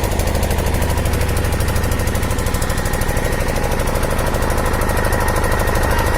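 An engine running steadily, with rapid, even pulses and no change in speed.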